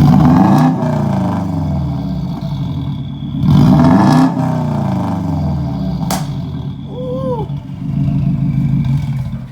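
Subaru WRX's turbocharged flat-four running through an aftermarket exhaust, surging louder twice with the pitch sweeping up and down, the first time at the start and again about three and a half seconds in. A short voice-like call comes about seven seconds in.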